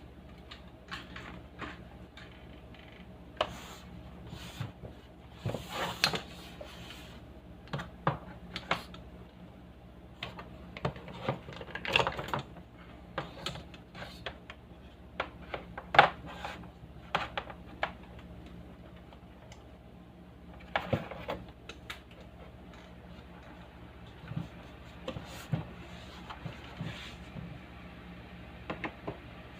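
Irregular clicks and light knocks of small hard parts being handled, some in quick clusters, over a faint steady low electrical hum.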